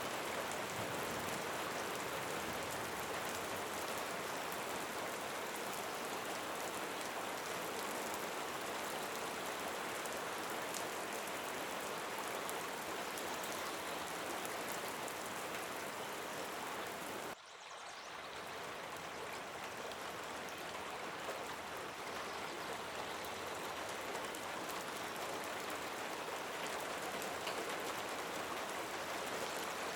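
Steady rain falling, with fine patter of drops throughout. The sound dips out for an instant about two-thirds of the way through, then carries on.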